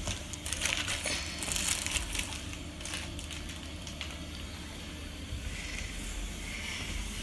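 Rustling and crinkling with light scratchy clicks, busiest in the first few seconds, from crinkly material being batted about while a cat plays.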